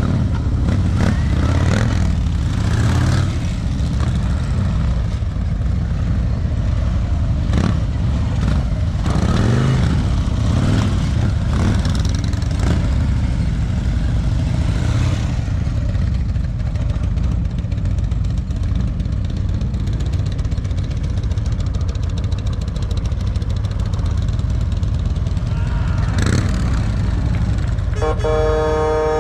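Motorcycle engine running at low speed, its pitch rising and falling as it is throttled on and off. Near the end a vehicle horn honks briefly.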